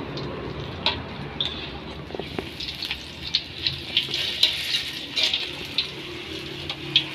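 Battered stuffed tofu frying in hot oil in a metal wok: a steady sizzle with many small crackling pops, thickest in the middle. A few sharp clicks of a utensil against the wok as the pieces are turned and lifted out.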